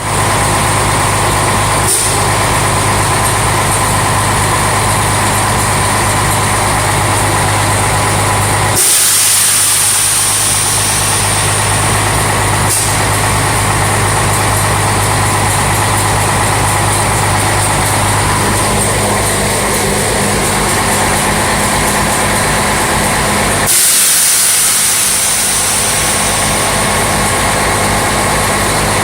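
Scania 111S truck's diesel engine idling steadily, with two loud bursts of compressed air hissing out, each a second or two long and some fifteen seconds apart, as the front-axle air suspension is worked.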